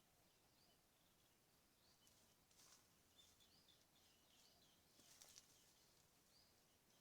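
Near silence, with faint, scattered short bird chirps and two soft clicks, about a third of the way in and again past the middle.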